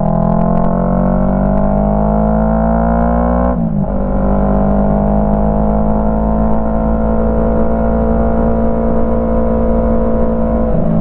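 Yamaha MT-03's 321 cc parallel-twin engine through a full Jeskap aftermarket exhaust, heard from the bike while riding. It pulls up in pitch under acceleration, shifts up with a short break in the note about three and a half seconds in, then runs steadily in the higher gear, with another brief shift near the end.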